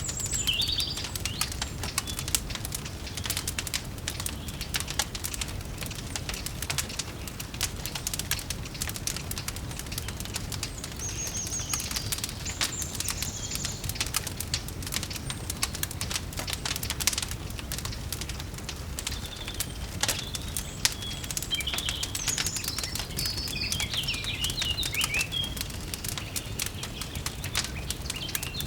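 Wood fire crackling with dense, irregular pops over a low steady rumble, while small birds chirp now and then: briefly near the start, again around twelve seconds in, and in a busier stretch in the last third.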